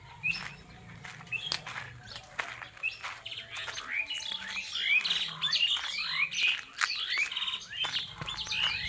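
Several birds chirping in quick, overlapping calls that grow busier and louder about halfway through, with sharp clicks scattered among them.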